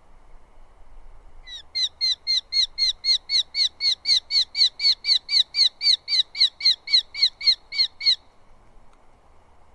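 Eurasian hobby calling: a long, even series of sharp, high kew notes, about four a second, each dipping slightly in pitch. The series starts about a second and a half in and stops abruptly after about six and a half seconds.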